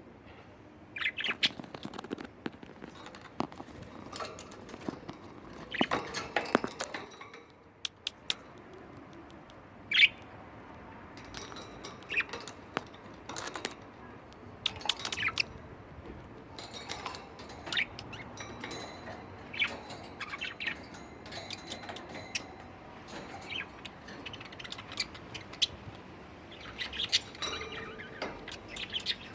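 Budgerigars chirping and chattering in short, sharp calls at irregular intervals.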